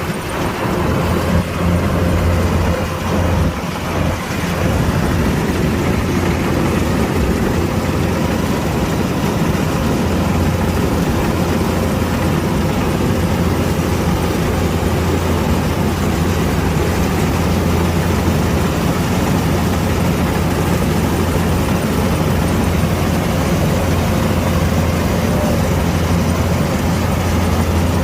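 Kubota DC-105X combine harvester's diesel engine running steadily with a deep, even drone, getting louder about a second in.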